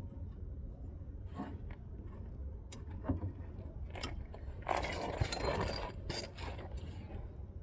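Metal wrenches clinking and scraping against the tie rod: a few sharp clicks, then a longer stretch of rattling and scraping about five seconds in.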